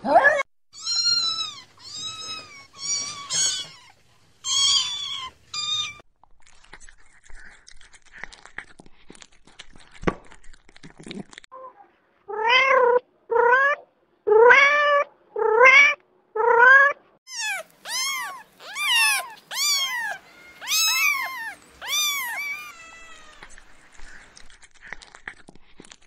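Cats meowing. A run of short high mews comes first, then after a pause about six loud meows in a row, then many high mews overlapping, several cats calling at once.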